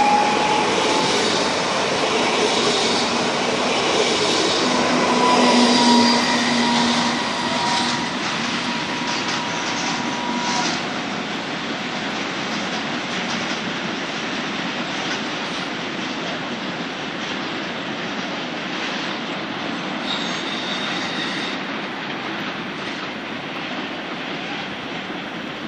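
EN76 (Pesa Elf) electric multiple unit rolling away along the track, its noise fading steadily. A few held tones sound in the first third, and a brief high tone comes near the end.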